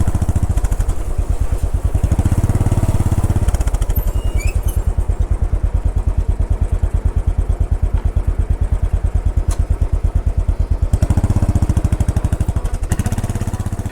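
Royal Enfield Bullet 500's single-cylinder engine running under way, a steady, even train of thumping firing pulses. It swells louder for a moment about three seconds in and again about eleven seconds in.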